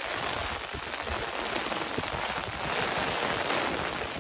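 Steady heavy rain falling, heard from under an umbrella, with gusty wind buffeting the microphone.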